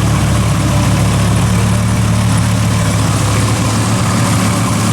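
Turbocharged 2004 Dodge Ram SRT-10's 8.3-litre Viper V10 idling steadily.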